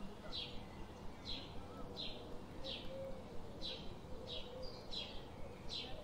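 A bird calling a short, high, falling note again and again, a little more than once a second.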